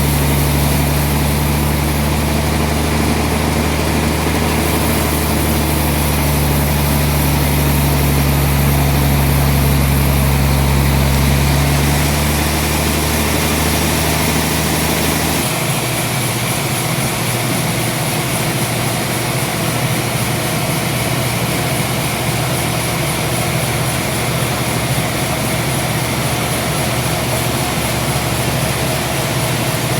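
Sawmill machinery running steadily, a loud engine-driven drone; about halfway through the deep low hum drops away and the running continues lighter and higher.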